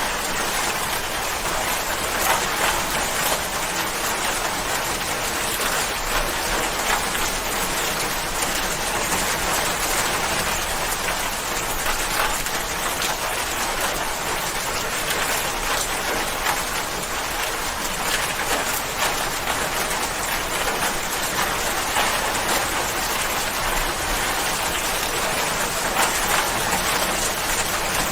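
Steady rain falling, dense patter of drops on a surface with a continuous hiss and no change in intensity.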